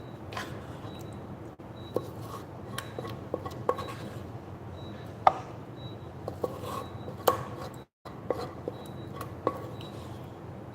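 Kitchen utensils and dishes clinking and tapping as food is spooned and arranged in a dish: scattered irregular clinks, the loudest about five and seven seconds in.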